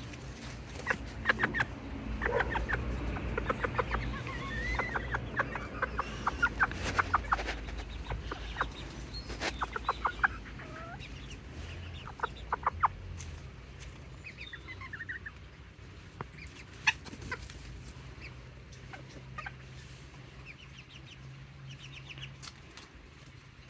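Serama bantam chickens clucking in quick runs of short notes, busiest in the first half and thinning out toward the end, over a low steady rumble.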